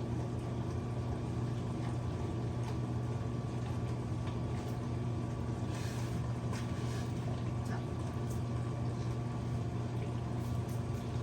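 An electric appliance motor running with a steady low hum, with a few faint ticks over it.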